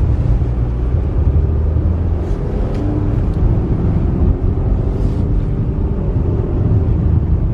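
Car driving on a snowy road, heard from inside the cabin: a loud, steady low rumble of engine and tyres that swells as the car sets off.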